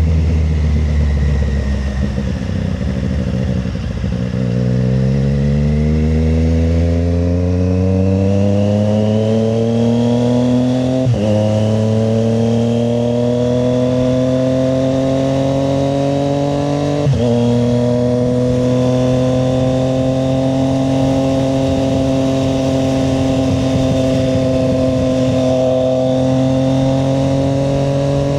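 Triumph Street Triple 765 RS's three-cylinder engine heard from the rider's seat, pulling at low revs, then accelerating from about four seconds in with its pitch rising. It shifts up twice, about 11 and 17 seconds in, each a brief drop in pitch, then settles into a steady cruise that climbs slowly.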